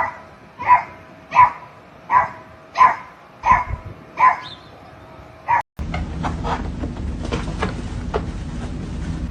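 A dog barking in a steady rhythm, seven short barks about two-thirds of a second apart. A little before six seconds it cuts off suddenly, and a steady low rumble with faint clicks follows.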